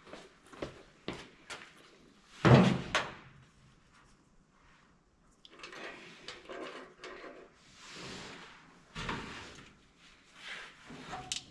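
A series of clicks, knocks and clatter, like things being handled and set down, with one loud knock about two and a half seconds in and some scraping or rustling after it.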